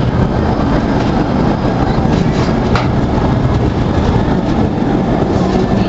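Steam train running along its track as heard from aboard a passenger car: a steady rumble and clatter of wheels on rails, with one sharp click about three seconds in.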